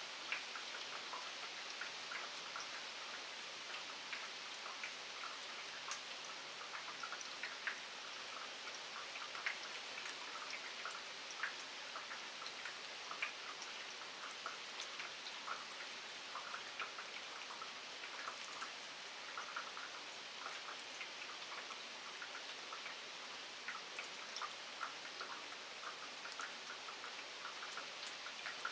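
Steady rain falling on wet ground at night: an even hiss with many individual drops tapping close by.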